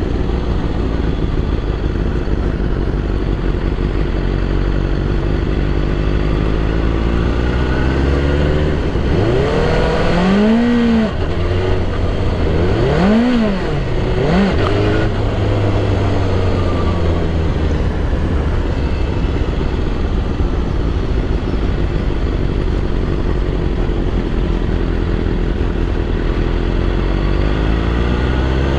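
A BMW S1000RR superbike's 1000 cc inline-four engine idling steadily. About a third of the way in, the revs rise and fall three times in quick succession, and near the end the revs climb again.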